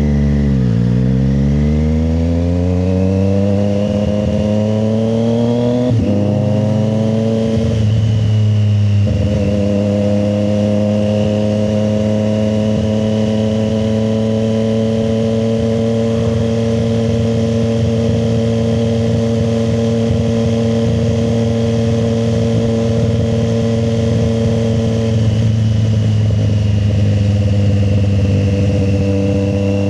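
Triumph Street Triple 765 RS's three-cylinder engine pulling up through the gears. Its pitch climbs and drops back at gear changes about six and nine seconds in, then holds a steady cruise.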